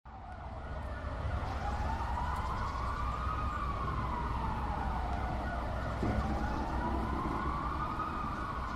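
Siren wailing: its pitch slowly rises and falls twice over a steady background rumble.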